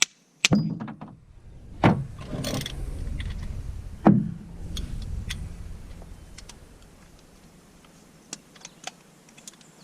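Sharp metal knocks and clanks of tools and wheel-hub parts being handled, the loudest about two and four seconds in, with scattered lighter clicks. A low rumble sits under them until about seven seconds in.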